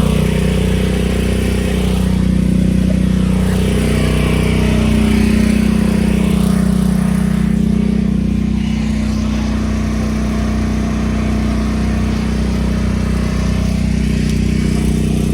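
An engine running steadily, giving a low, even hum.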